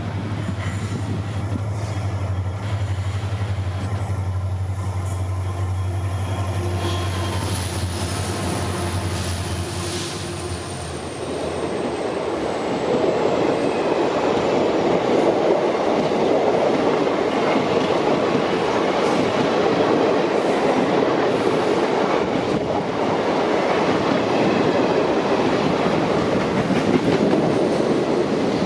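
Twin EMD WDG4 diesel locomotives, each with a two-stroke V16, running past with a steady low engine drone and a high whine that slides down in pitch. About eleven seconds in this gives way to the louder, steady rumble of the passenger coaches rolling past on the rails.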